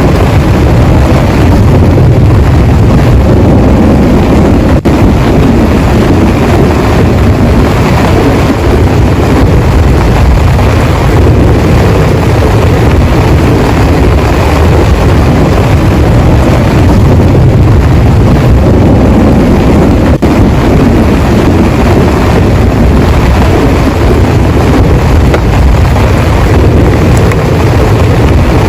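Heavy rain pouring, a loud, deep, even rush that keeps up without letup.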